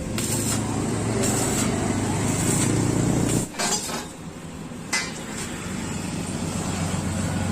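Motorcycle engine running steadily, then dropping away about three and a half seconds in, with two sharp metallic clinks, and running again near the end.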